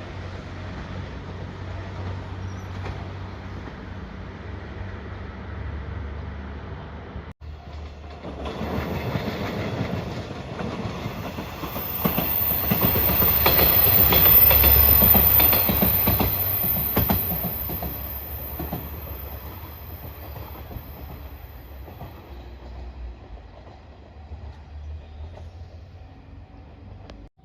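A train passing close by: a steady rumble, then after an abrupt break the train comes in, its wheels clattering over the rail joints, loudest about halfway through, then slowly fading away.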